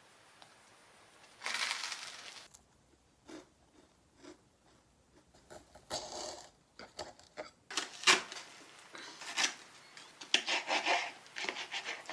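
Small objects being handled: a scattered string of short clicks, taps and brief scrapes or rubs. They come thicker and louder in the second half, with the sharpest click about eight seconds in.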